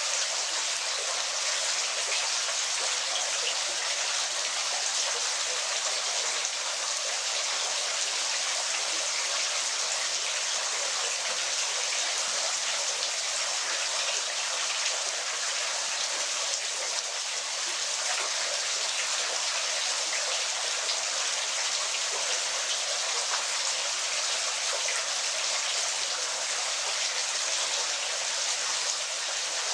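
Waterfall: steady splashing and hiss of falling water, even throughout, with no low rumble.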